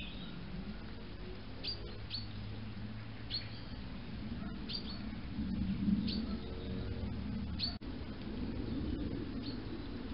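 A small bird calling: short, high chirps that slide downward, one every second or so, over a steady low background rumble.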